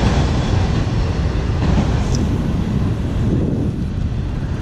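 Train rolling past on the tracks: a steady rumble of wheels on rails, easing off slightly near the end.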